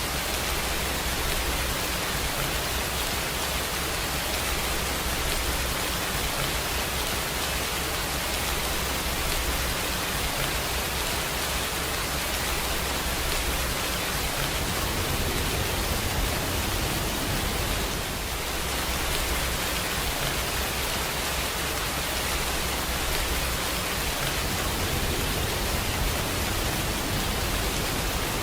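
Steady rainfall: an even, unbroken hiss with a low rumble underneath.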